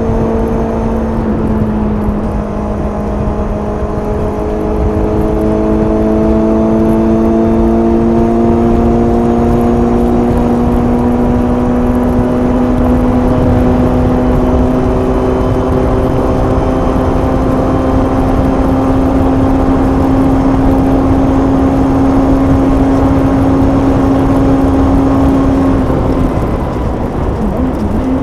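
Suzuki GSX-S750's inline-four engine on stock exhaust pulling steadily at highway speed, its pitch climbing slowly, with a steady rushing noise underneath. The pitch dips briefly about a second in and again near the end.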